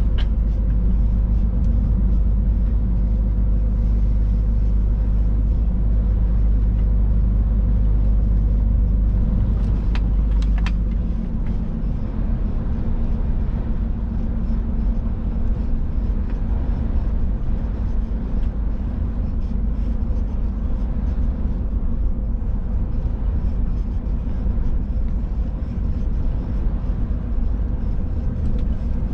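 Scania truck's diesel engine and road noise heard from inside the cab while driving, a steady low drone. Two short clicks come about ten seconds in, and just after them the deepest rumble eases.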